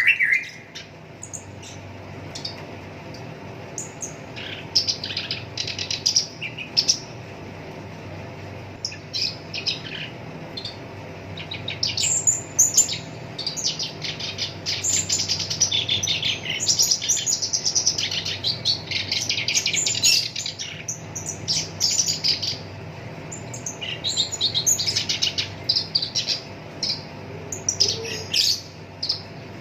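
Black-browed reed warbler singing: bursts of rapid, harsh chattering notes in quick rolling runs, broken by short pauses, over a steady low hum.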